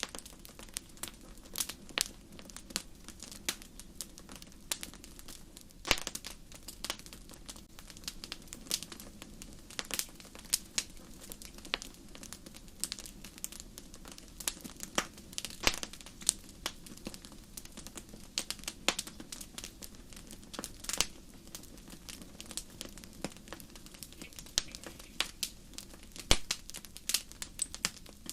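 Wood fire burning in a fireplace: irregular sharp pops and crackles over a steady low rush of flame.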